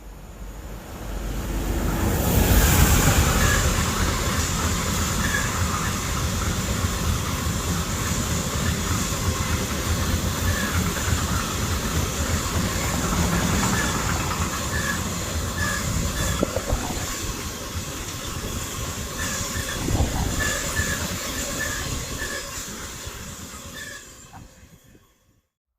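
A train passing close by: steady rolling noise of wheels on rail, with repeated short high wheel squeaks. It builds up over the first two seconds and dies away near the end.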